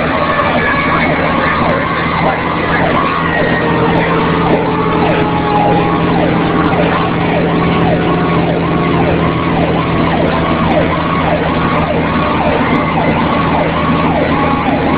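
Fire engine siren sounding while responding: a fast yelp repeating about twice a second, with slower falling siren tones over it and the truck's engine running steadily underneath.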